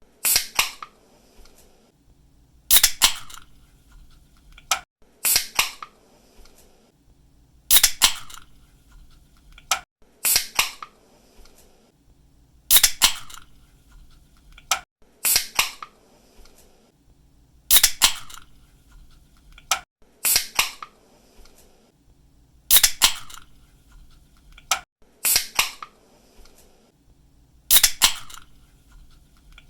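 Aluminium drink can's pull-tab snapped open again and again, a sharp crack followed by a short hiss about every two and a half seconds, each with a faint click just before.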